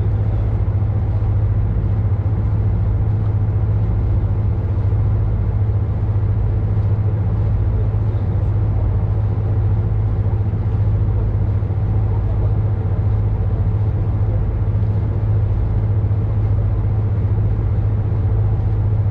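A ship's engine droning steadily with an even, deep hum, heard on board under way, with a wash of sea and hull noise over it.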